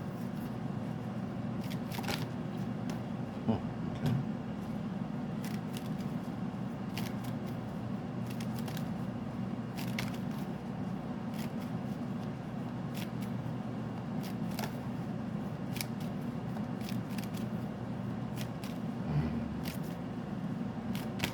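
Tarot cards being shuffled by hand: scattered soft flicks and taps of the cards at an irregular pace, over a steady low hum.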